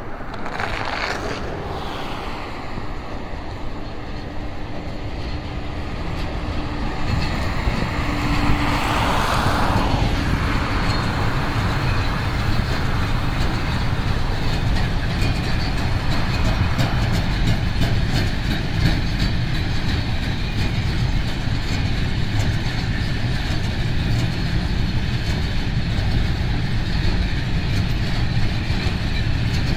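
Freight train hauled by a VR Sr1 electric locomotive passing: the locomotive goes by with a brief swell of noise about nine seconds in, then loaded container wagons roll past with a steady rumble and rail clatter.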